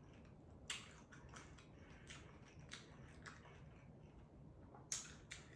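Faint chewing of a mouthful of taco, with small wet clicks and crunches throughout and two sharper bites, one under a second in and one near the end.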